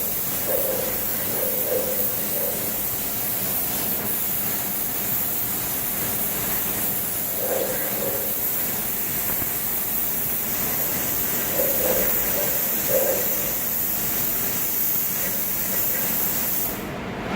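Spray gun hissing steadily as it sprays clear coat in a narrowed fan pattern, over the steady noise of the running paint booth. The spray cuts off sharply near the end.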